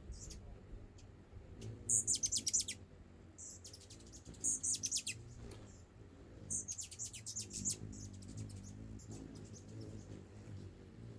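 Hummingbirds chattering: three quick bursts of rapid, very high-pitched chips, about two seconds apart, over a low steady hum.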